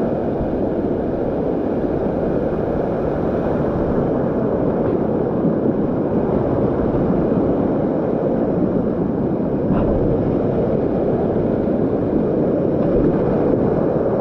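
Waterfall water rushing, a loud steady roar.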